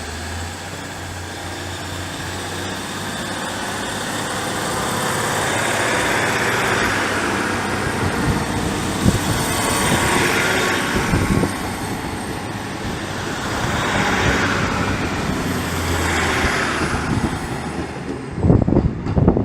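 A train running past at close range: a low steady hum under a broad rushing noise that builds over the first few seconds, then swells and eases a few times.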